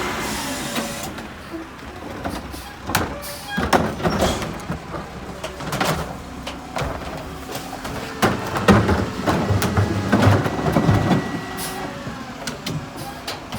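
Mack MRU garbage truck running, with a string of sharp knocks and clatter of trash being loaded at its McNeilus rear-loader hopper. The engine note rises in the middle.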